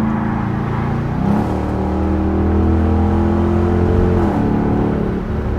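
Straight-piped 5.7-litre HEMI V8 of a 2021 Dodge Durango R/T droning through its exhaust. About a second in, the note shifts to a deeper drone that climbs slowly, then drops back a little after four seconds.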